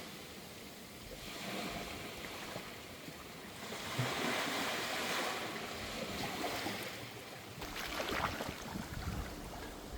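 Sea waves washing in, as swells of noise that rise and fall every few seconds.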